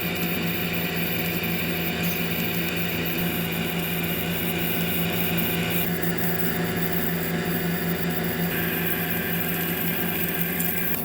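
Lathe turning down the end of a steel bulldozer pin with a carbide insert: steady machine hum under the hiss of the cut, which shifts in tone about six seconds in and again a couple of seconds later.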